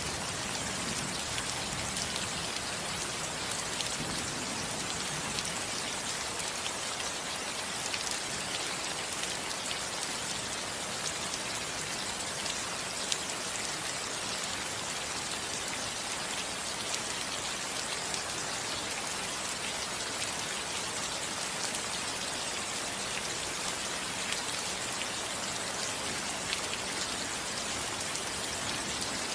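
Steady rain falling on a house roof: an even hiss with many small drop ticks scattered through it.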